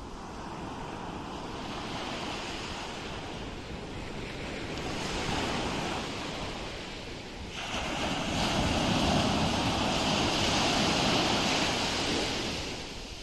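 Ocean waves breaking on a shore. A swell builds about five seconds in, then a larger wave breaks suddenly past halfway and washes loudly for several seconds before fading near the end.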